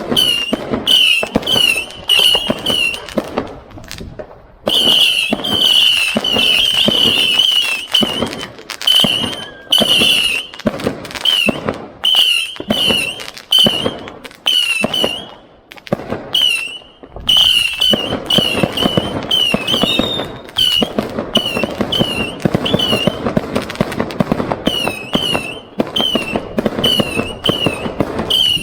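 A 100-shot firework cake firing in rapid succession: a string of short warbling whistles with sharp pops and crackling between them, with two brief lulls.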